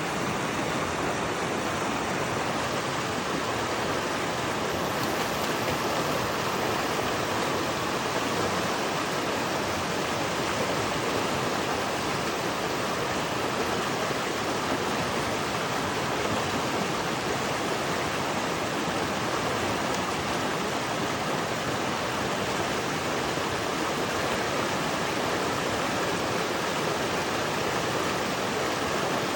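Steady rushing of a fast mountain stream, an even roar of water that does not change.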